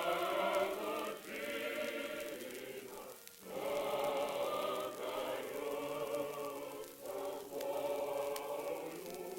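Unaccompanied mixed choir singing a slow Russian folk song in sustained phrases, with short breaks between phrases about a second in, near the middle and about two-thirds through.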